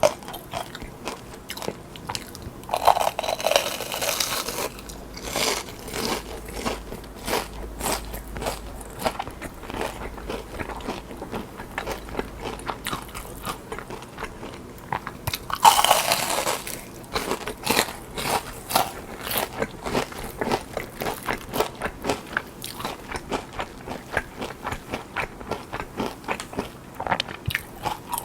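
Close-miked eating of deep-fried battered king prawn: crisp crunching bites and chewing with many sharp crackles, with two louder crunching bites, one a few seconds in and one about halfway through.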